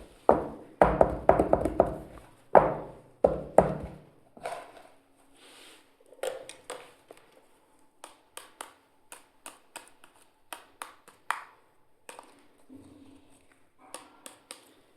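Small toy kitchen pieces being handled and set down: several heavier knocks in the first few seconds, then a string of light clicks and taps, about two a second.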